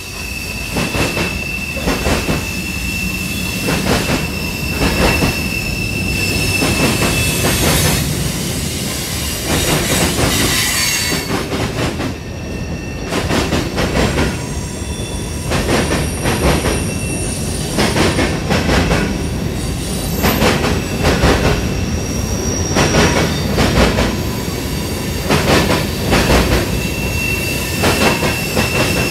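Freight cars of a CSX mixed manifest train rolling past: refrigerator cars, boxcars, a coil car and covered hoppers. Wheels knock rhythmically over the rail joints, with a steady high wheel squeal in the first several seconds and again near the end.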